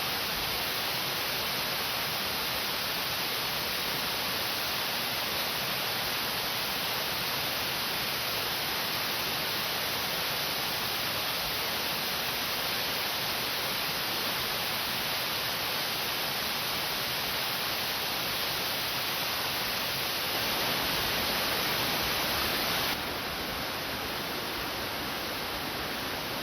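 Waterfall running down a rock face: a steady, even rushing of water. It swells slightly about 20 seconds in, then drops abruptly to a softer level about 23 seconds in.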